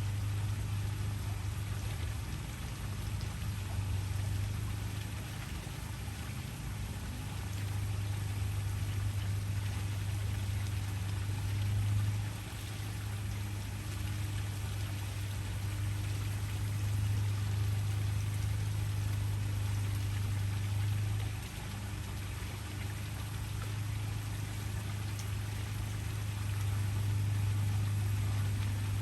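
Waterfall: a steady rush of falling water with a strong low rumble, swelling and easing slightly now and then.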